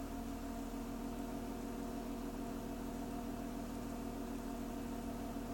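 BMW E46's engine idling with a steady running note; the idle is rough, the fault the owner is recording.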